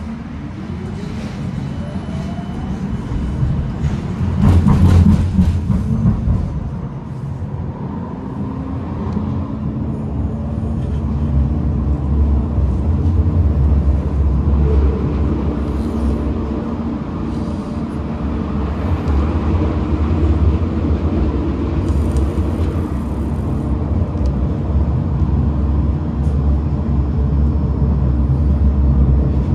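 Tram running on its rails: a whine from the electric drive rises in pitch in the first few seconds as it picks up speed, then a steady low rumble of wheels and running gear carries on, with a louder surge about four to six seconds in.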